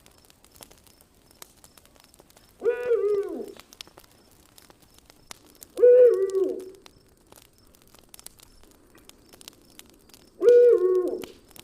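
An owl hooting three times, a few seconds apart: each hoot about a second long, holding one pitch and then dropping at the end. Campfire crackle snaps and pops through the gaps.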